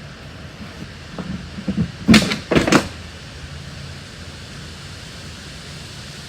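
Junk and debris being handled on a truck: a few light knocks, then two loud bangs about half a second apart, over a steady low hum.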